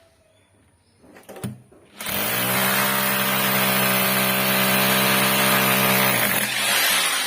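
A handheld power tool's electric motor starts after a few clicks and runs at a steady speed for about four seconds, then is let go and winds down.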